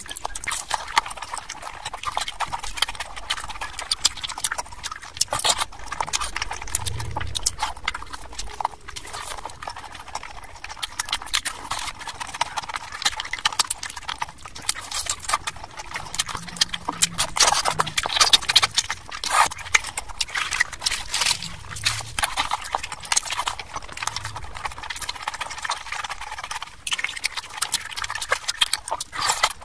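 Close-miked wet chewing and lip-smacking of someone eating mutton curry with luchi, a dense, irregular run of quick mouth clicks and smacks.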